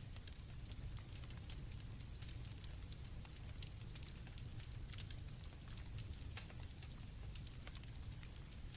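Campfire crackling with irregular small pops over a low rumble, with crickets chirping in a steady high trill.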